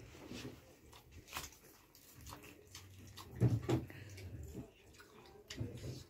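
Eating noises: children chewing fried pastries, with scattered short clicks and wet mouth sounds. A couple of loud low thumps come about three and a half seconds in.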